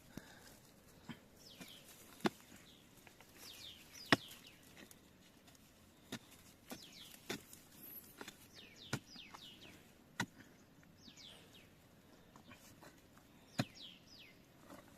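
Irregular sharp knocks of a digging bar striking into earth, about a dozen strikes one to two seconds apart, as a hole is dug for a wild yam tuber. Faint short bird chirps that slide downward sound in between.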